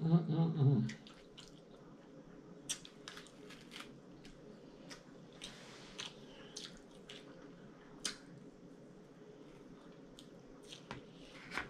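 Close-miked eating: sparse, wet mouth clicks and smacks of chewing, with a short hum of voice in the first second.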